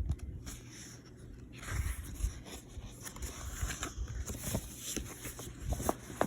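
Paper rustling with a few light clicks and knocks, as of a book's pages being handled and turned.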